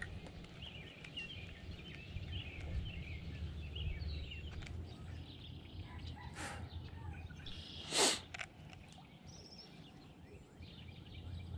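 Outdoor ambience by a pond: small birds chirping and calling, thickest in the first few seconds, over a low steady rumble. One short, louder noise stands out about eight seconds in.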